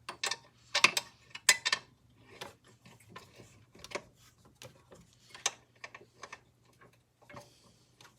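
Small metallic clicks and ticks of an Allen key working screws on a miter saw's metal base and frame. A few sharp clicks come in the first two seconds, then lighter irregular ticking.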